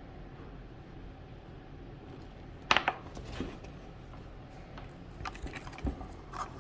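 Small plastic toy packaging being handled and opened: one sharp crackle about three seconds in, then scattered light clicks and ticks.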